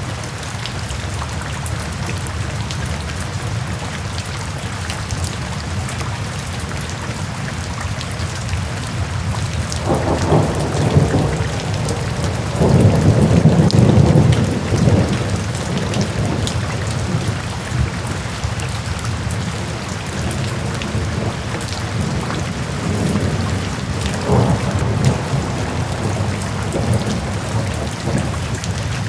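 Steady rain falling, with thunder rolling in low: a rumble builds about a third of the way in and is loudest near the middle, then dies back, and a second, shorter rumble comes near the end.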